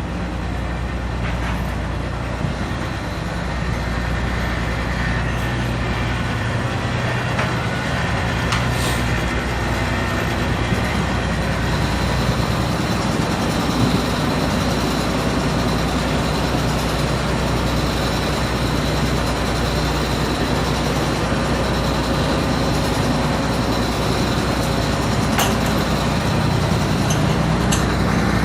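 A motor vehicle's engine running steadily under continuous travel noise, growing slightly louder over the stretch.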